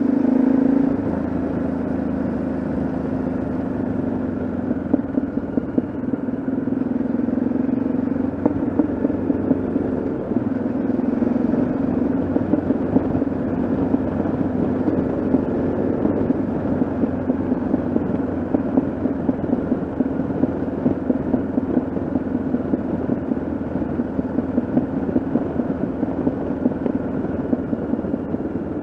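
Yamaha XT660Z Ténéré single-cylinder engine running under way at a steady pace. Its pitch rises and falls a little near the start and again around the middle.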